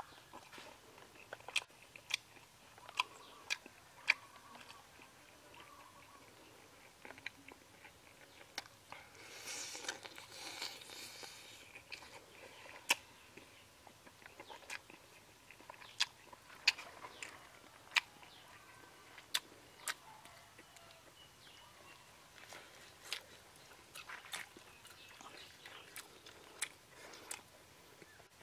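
A man chewing grilled pig intestine with his mouth open, with sharp wet smacks and clicks of lips and tongue scattered throughout. A longer hissing sound comes around ten seconds in.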